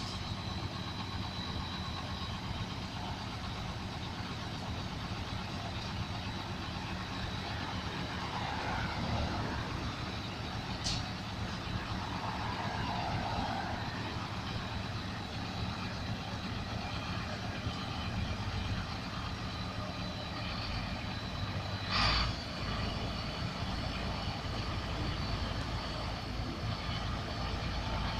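Steady low rumble of a running motor vehicle engine, with a brief louder knock about 22 seconds in.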